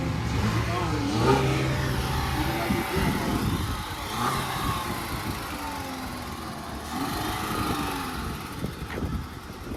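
Car engine running, with revving that rises and falls in pitch.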